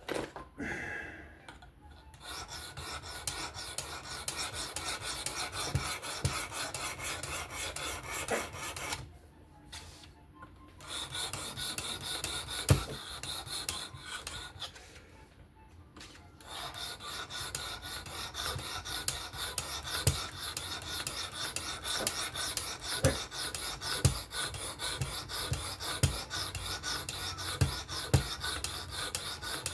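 Knife blade of 14C28N steel being stroked quickly back and forth against the abrasive stone of a Work Sharp Precision Adjust fixed-angle sharpener, a steady rasping scrape. It stops twice briefly, with an occasional light click.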